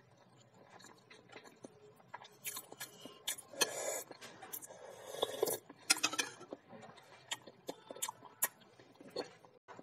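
Close-up chewing and wet mouth smacks, with a spoon scraping in a bowl in the middle, the loudest part.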